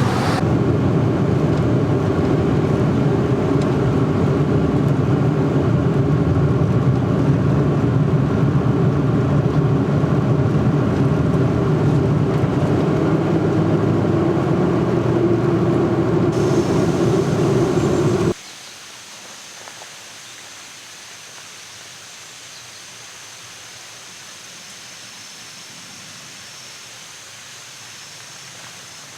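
Steady running noise of a moving vehicle, a dense rumble with a low engine drone. About 18 seconds in it cuts off abruptly and is replaced by a quiet, steady outdoor hiss.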